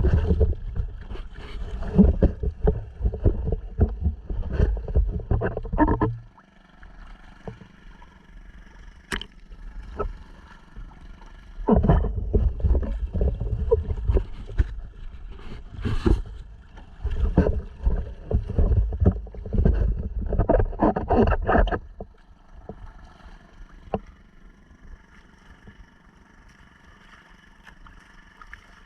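Honda 2.3 hp single-cylinder four-stroke outboard running, pushing a sea kayak along: a steady faint hum. Over it comes heavy, uneven rumbling buffeting on the camera microphone, in the first few seconds and again through the middle, easing off near the end.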